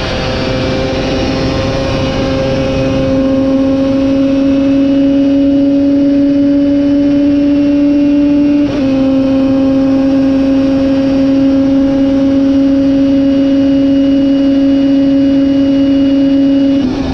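Superbike engine at full throttle, its pitch climbing slowly, with a quick upshift about halfway through and the revs dropping right at the end.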